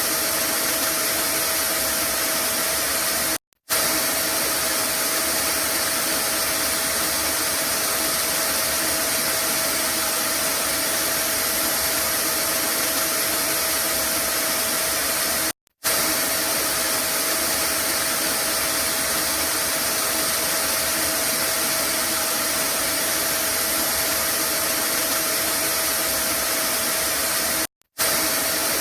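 Vacuum cleaner running steadily with an even whooshing hiss and a faint fixed hum. It cuts out for a split second three times, about twelve seconds apart.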